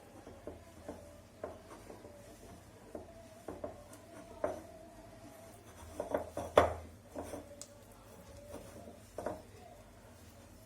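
Flour and yeast water being mixed into pizza dough in a bowl: irregular knocks, clinks and scrapes against the bowl, thickest in a short flurry a little past the middle, over a faint steady hum.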